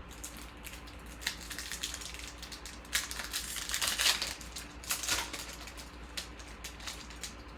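Chrome trading cards being handled and flipped through: a run of dry rustles and crinkles, loudest in the middle, dying away about five and a half seconds in.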